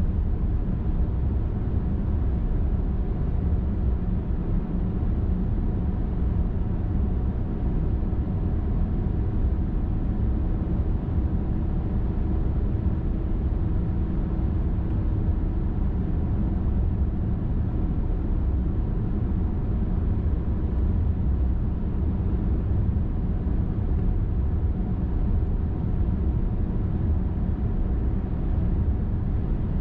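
A car cruising on a highway: steady road and engine drone, mostly low rumble and tyre noise, with a faint even hum from the engine.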